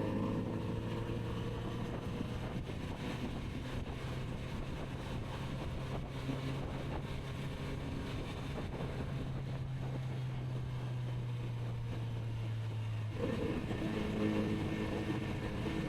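Kawasaki Z900RS inline-four engine running steadily while riding, with light wind noise. About thirteen seconds in, the engine note grows fuller and a little louder.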